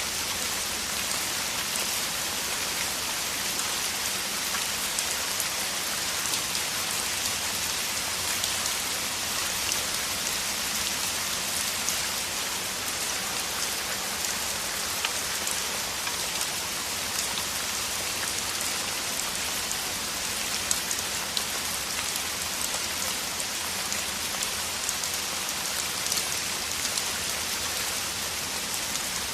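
A downpour: heavy rain falling steadily, a dense even hiss with countless small drop ticks through it.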